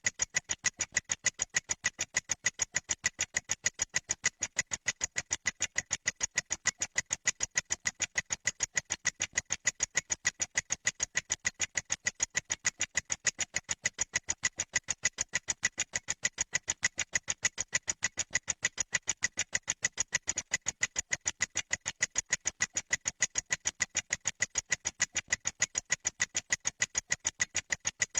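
Steady, rapid ticking sound effect, about five sharp ticks a second, even and unchanging throughout.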